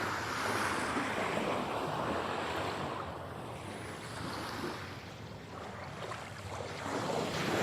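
Ocean surf: a wave washes out and dies away, and the next wave swells up near the end.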